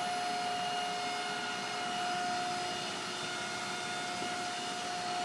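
Steady hum of a powered-up Erwin Junker CNC ID/OD grinder idling, with a constant high whine over an even mechanical noise.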